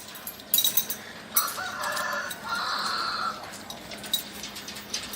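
A rooster crows once, a harsh call of about two seconds, with light clicks and clinks around it.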